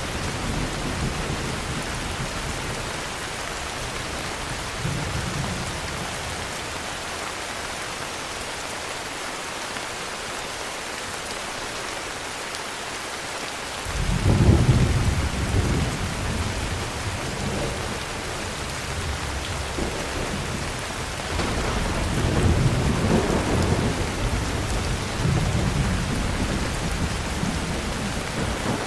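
Steady heavy rain falling on surfaces, with thunder rumbling low. A loud rumble of thunder breaks in suddenly about halfway through, and another long rumble follows near the end.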